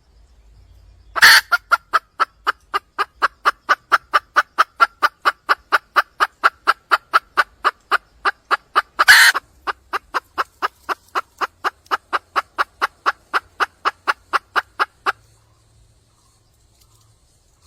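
Red junglefowl hen calling for a mate in a long, fast run of short clucking notes, about four a second. Two louder harsh bursts come about a second in and about halfway through, and the calling stops about two seconds before the end.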